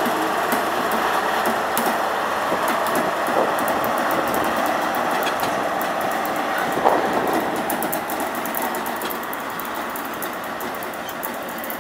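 InterCity 125 (HST) pulling away, the Class 43 power car's diesel engine running, then its coaches rolling past with rapid wheel clicks over the rail joints. A single clunk comes about seven seconds in, and the train noise slowly fades near the end.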